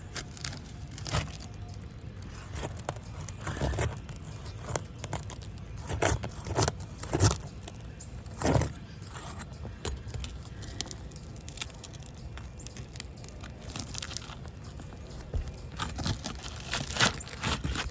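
Irregular scrapes, clicks and crackles of asphalt shingles being pried up from the course above, with the strongest snaps about seven and eight and a half seconds in, over a steady low rumble.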